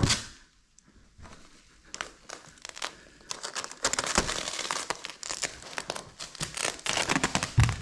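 Plastic carpet-protection film crinkling and crackling as it is handled and pulled off the roll, sparse at first and much busier from about three seconds in.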